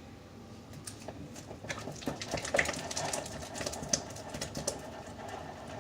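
Scattered light clicks and taps of a utensil against a bowl while slime is mixed, with a faint steady tone in the background from about two seconds in.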